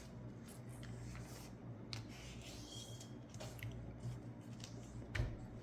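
A sheet of letter-size paper being folded and creased by hand: faint rustles and crinkles, with a louder soft thump a little after five seconds, over a low steady hum.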